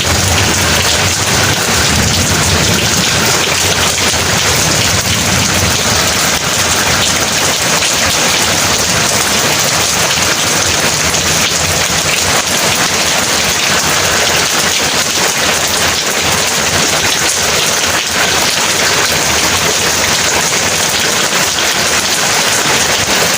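Heavy rain pouring steadily, a dense even hiss, with a low rumble of thunder in the first couple of seconds that fades away.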